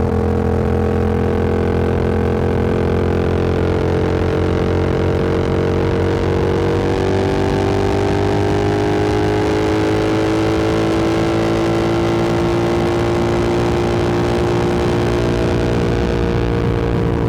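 Motorcycle engine running at a steady road speed, its pitch climbing slowly for a few seconds in the middle as the bike gathers speed, then holding steady.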